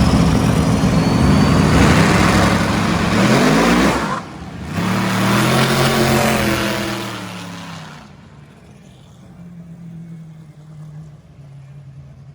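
A car engine at full throttle, revving higher and higher. About four seconds in it cuts briefly, as at a gear change, then pulls again and fades away as the car goes off into the distance, leaving a faint engine hum.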